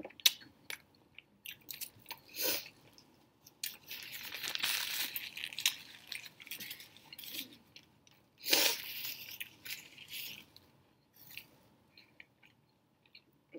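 Close-up chewing of a raisin bagel with beef sausage and cream cheese: scattered mouth clicks and smacks, with a stretch of rustling in the middle as a paper napkin is wiped across the mouth, and a short louder burst about two-thirds of the way through.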